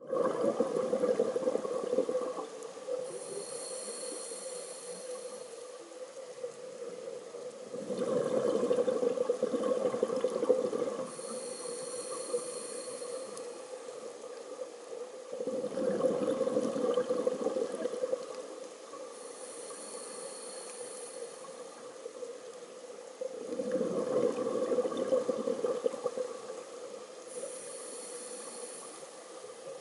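Scuba diver breathing underwater through a regulator: four slow breaths, each a rush of exhaled bubbles followed by the inhale drawn through the regulator with a high whistling hiss, about one breath every eight seconds.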